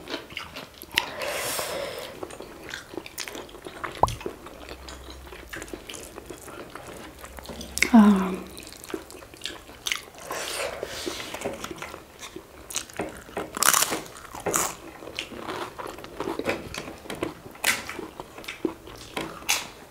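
Close-miked chewing and biting of curry and rice eaten by hand: wet mouth smacks, clicks and occasional crunches, with a brief falling hum about eight seconds in.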